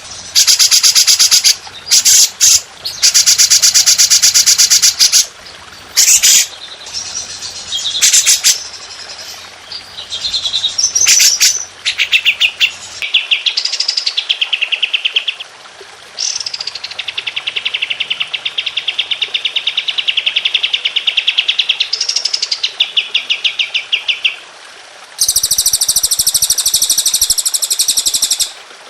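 Songbirds singing 'tembakan' song: long, rapid-fire trills of quickly repeated notes, one phrase after another. Near the middle, a trill rises and then holds steady for several seconds. A very high, thin roll follows near the end.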